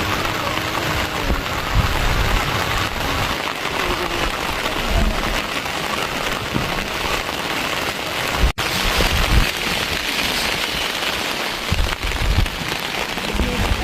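Steady rain falling, a continuous even hiss, breaking off for an instant about two-thirds of the way through before carrying on.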